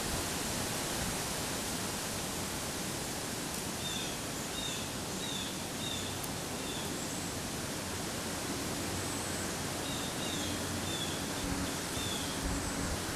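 Steady rushing outdoor hiss with a small bird chirping over it: short, slightly falling chirps about twice a second, in one bout about four seconds in and another around ten seconds in.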